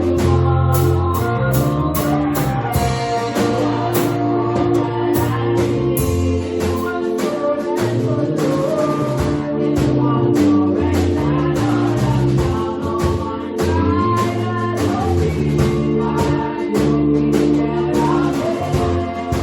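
Church choir singing a hymn with live band accompaniment: a stepping bass line, held chords and steady drum beats under the voices.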